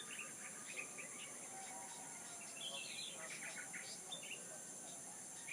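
Small birds chirping and twittering in short, quick calls scattered throughout, over a steady high-pitched hiss.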